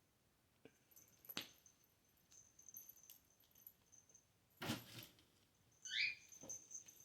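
Kittens playing: faint scattered taps and scuffles, a louder knock a little past halfway, and a brief high rising squeak near the end.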